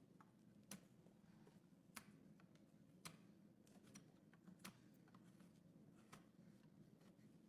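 Faint, irregular sharp clicks of hoof-trimming tools working on a horse's overgrown hoof, roughly one every second, over a low steady hum.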